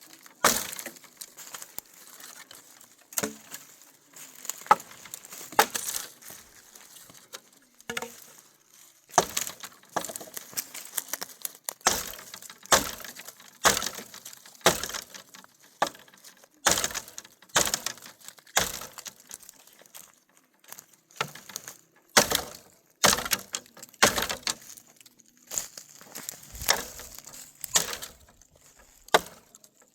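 Dry firewood being broken up: a long run of sharp, irregular cracks and snaps, about one or two a second, with rustling of brush between them.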